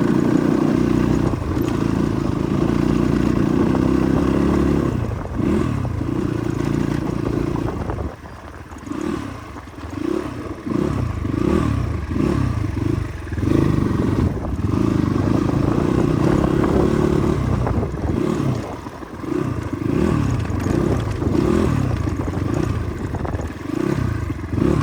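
Motorcycle engine running under load on an off-road track. The revs hold steady for a few seconds, then rise and fall again and again as the throttle is opened and closed, settle for a few seconds, and then rise and fall again. Clattering and scraping from the rough ground come through along with the engine.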